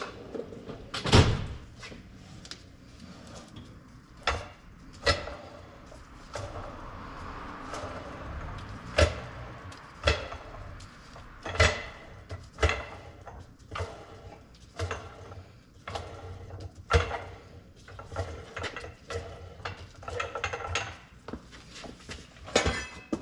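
Irregular metallic clanks, knocks and clicks of hand tools and steel parts being handled during front suspension work on a car, coming at uneven intervals.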